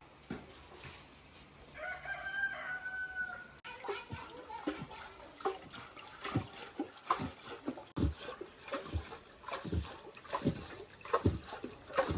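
A rooster crowing once, a single held call about two seconds in. It is followed by a run of short, irregular sharp knocks.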